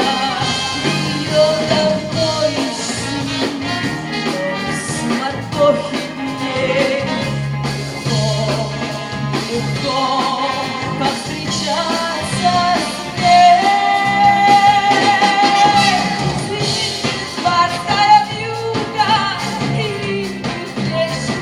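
Live rock band playing a song: drums, bass and guitar under a melodic lead, with a long held note in the middle.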